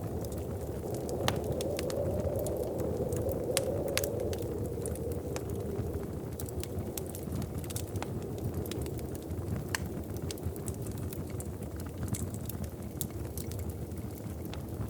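Wood fire crackling, with irregular sharp pops and snaps over a steady low rush that swells for a few seconds near the start.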